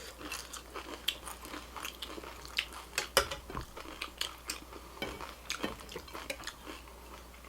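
Close-up eating: chewing and crunching of food, with sharp clicks of cutlery against dishes. The loudest click comes about three seconds in.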